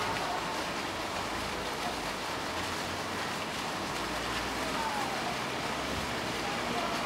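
Steady rushing of running water, with faint voices in the background.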